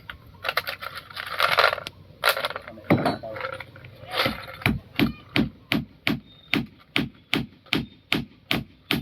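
Hammer driving nails into wood during a boat repair: a few irregular knocks and clatter at first, then steady hammer blows about two and a half a second from about halfway through.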